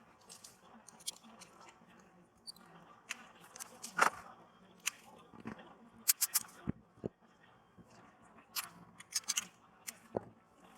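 Irregular light clicks and clinks of small metal parts and hand tools being handled, as in stripping down motorcycle carburettors for cleaning.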